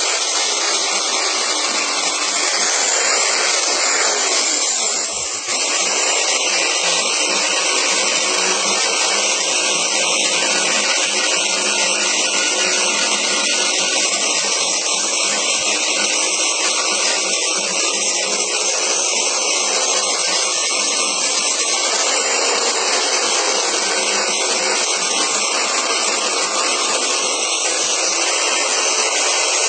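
Small handheld 1/2-inch belt sander with a 40-grit belt running steadily, sanding down wood. The level dips briefly about five seconds in.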